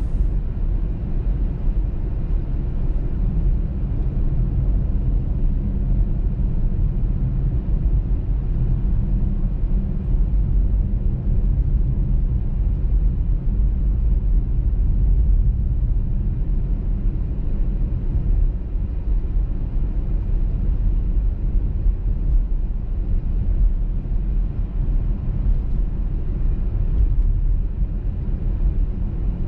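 Car driving on a highway: a steady low rumble of road and engine noise that does not rise or fall.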